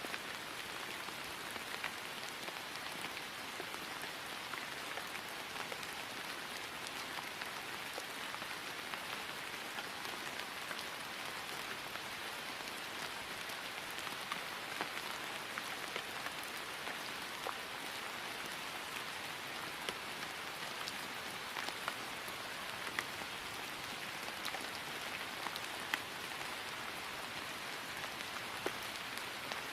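Steady rain falling on grass: an even hiss with many small drop ticks scattered through it.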